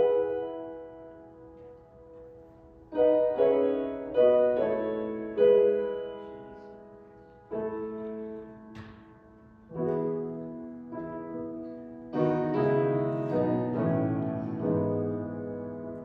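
Piano playing slow chords as the introduction to a worship song, each chord struck and left to ring and fade before the next.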